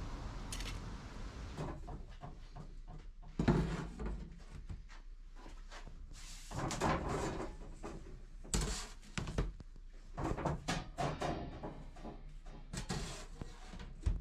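A run of irregular knocks, clunks and clatters, as of objects being handled and set down, in a small room. The loudest come about three and a half seconds in, and again around seven and nine seconds.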